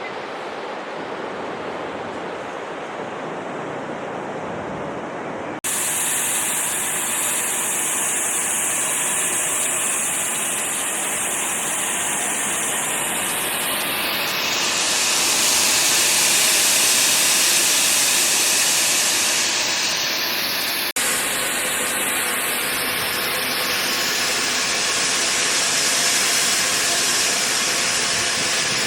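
Steam locomotive 5239 Goliath, a 2-8-0 tank engine, with a steady loud hiss of steam. The sound jumps abruptly at two cuts, about six and about twenty-one seconds in, each time to a louder, brighter hiss; the first few seconds are quieter and duller.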